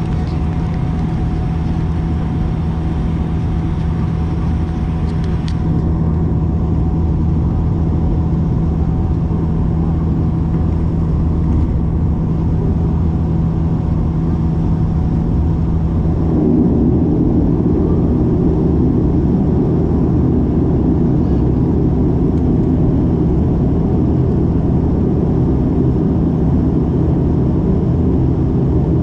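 Dash 8-400's Pratt & Whitney PW150A turboprop engines and propellers running steadily, heard from inside the cabin at a window seat, as on the taxi before takeoff. About halfway through, the engine noise grows a little louder and rougher, typical of a power increase while taxiing.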